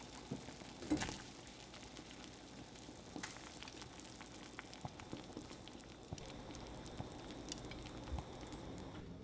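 Quiet kitchen work sounds: a soft crackling hiss with scattered light clicks and taps, the sharpest about a second in.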